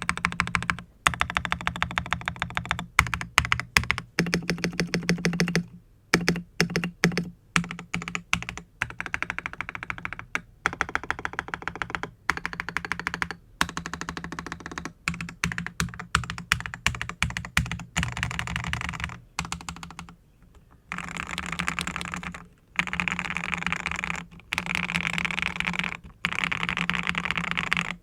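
Typing on an NT75 mechanical keyboard with lubed Akko Rose Red linear switches, an aluminium plate and XDA-profile keycaps, with foam and tape mods. The keystrokes come in runs of fast typing broken by short pauses, with a few slower single presses in between.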